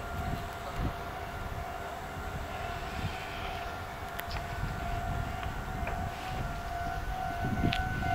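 Nagoya Railroad train at the station: a low rumble with a steady high-pitched whine that grows louder near the end.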